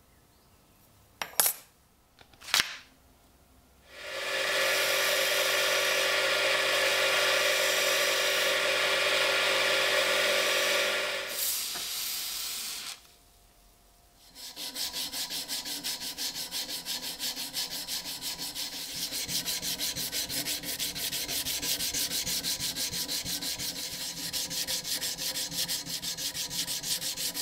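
Two sharp clicks, then a small power tool runs steadily for about seven seconds and stops. After a short pause comes rhythmic back-and-forth abrasive rubbing, as in sanding down rusty metal or knife scales.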